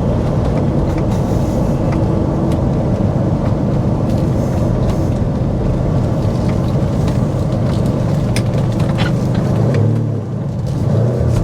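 1992 Lamborghini Diablo's mid-mounted 5.7-litre V12 with a straight-piped exhaust, running steadily at low neighbourhood speed as the car drives along. The level dips briefly about ten seconds in, then picks up again.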